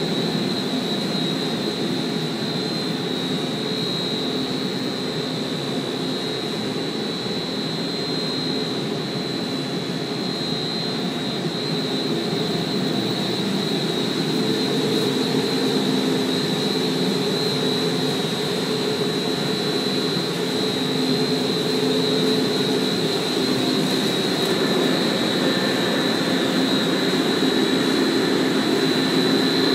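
Boiler room with gas-fired heating hot water boilers running: a steady mechanical roar with a constant high whine, growing a little louder about halfway.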